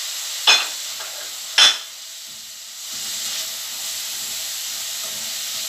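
Sliced onions, green bell pepper and scotch bonnet pepper sizzling in oil in an aluminium pan as they are stir-fried with a slotted spatula. Two sharp knocks come about half a second and a second and a half in. The sizzle drops briefly after them and picks up again about three seconds in.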